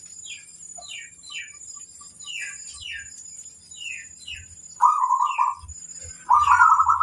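Zebra dove (perkutut) cooing: two loud trilled coos in the second half. Before them comes a run of short, quick, falling chirps, all over a steady high-pitched tone.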